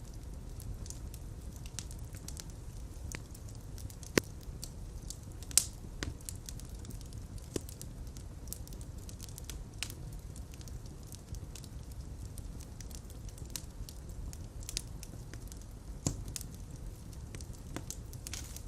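Fireplace fire crackling over a steady low rumble, with scattered small snaps and three louder pops about four, five and a half and sixteen seconds in.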